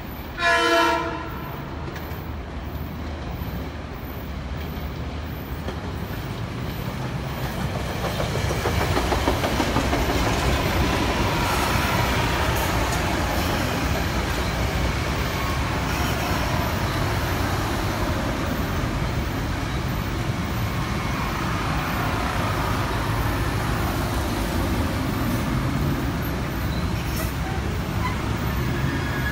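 A Budd M2 electric multiple-unit train sounds one short, loud blast on its two-chime horn. The train then comes in, growing louder over several seconds, and runs past with steady wheel-on-rail rumble and clatter and a faint whine that shifts in pitch.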